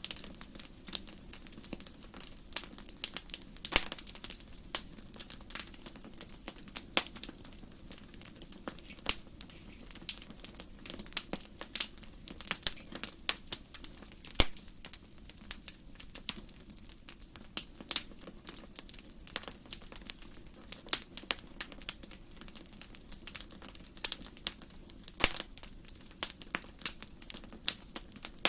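Wood fire burning in a fireplace: irregular sharp crackles and pops, several a second, over a faint steady low rumble of the flames.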